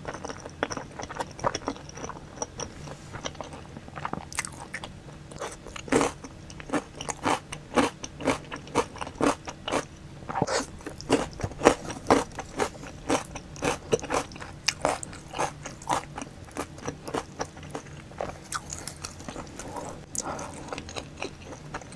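Close-miked mukbang eating: a person chewing pizza and pickled radish cubes with wet chewing and many crisp crunches, busiest through the middle.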